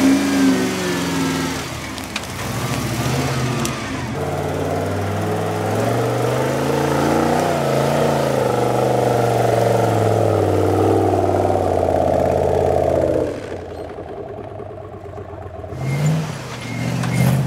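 Off-road Jeep's engine revving up and down under load as it crawls over rocky ledges. The revving drops off suddenly about three-quarters of the way through, then picks up briefly again near the end.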